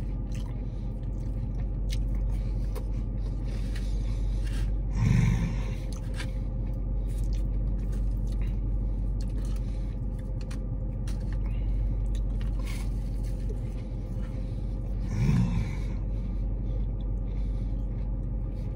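A steady low hum inside a car cabin, with faint chewing and crunching of fried seitan chicken fingers. Two short hums of the voice come about five seconds in and again about fifteen seconds in.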